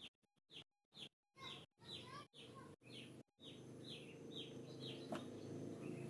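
A small bird chirping a run of short, falling notes, about two a second. The sound drops out to dead silence several times in the first second or so, and a low rumble grows louder beneath the chirps in the second half.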